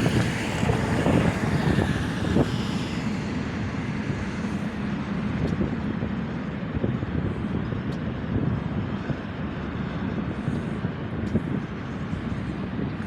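Freight train of double-stack container cars rolling past: a steady rumble of wheels on rail with a few faint clicks, a little louder for the first couple of seconds.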